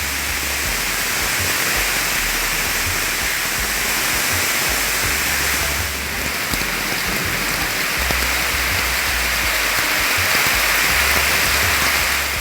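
Heavy tropical downpour, a dense steady hiss of rain, under background music with a low bass line.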